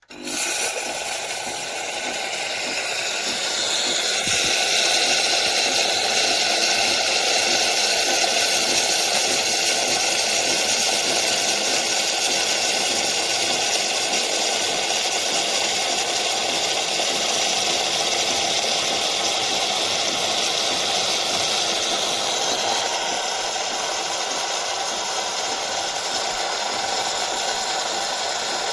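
KOTLIE espresso machine running with a steady mechanical noise. It starts suddenly, gets louder about four seconds in, and eases a little about twenty-three seconds in.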